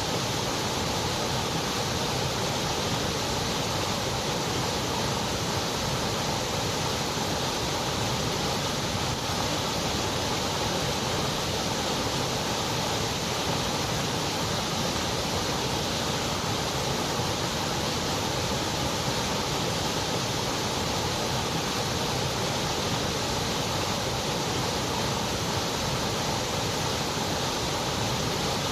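Continuous white noise: a steady, even hiss that never changes.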